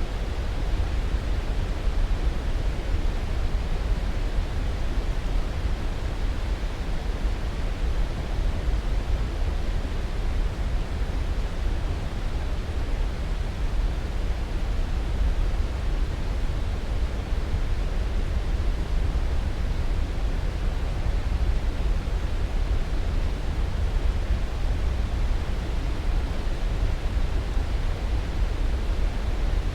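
Steady sleep-aid noise: an even, unchanging rush, heaviest in the deep low end and thinning toward the highs.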